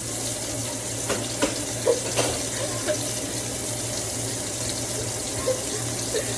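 Sausage patties frying in a pan: a steady sizzling hiss with a low hum under it, and a few light knocks and clicks in the first three seconds.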